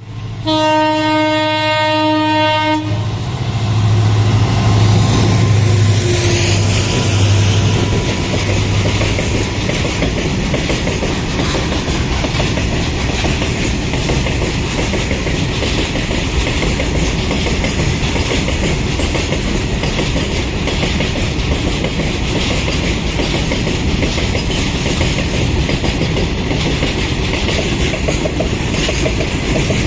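Two WDG4 diesel locomotives sound a horn blast of about two seconds, then pass with a heavy low engine note for several seconds. A long train of empty coal wagons follows, with steady rolling and wheel clatter on the rails.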